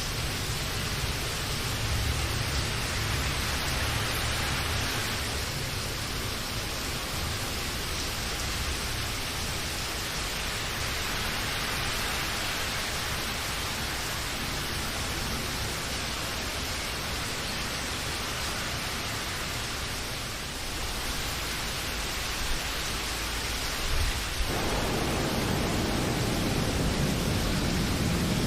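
Steady rain, a dense even hiss, with a low rumble underneath at the start. About 24 seconds in the sound turns louder and deeper.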